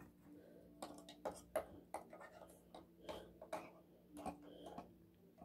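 Light, irregular clicks and taps of small plastic Playmobil figures and pieces being handled and set down.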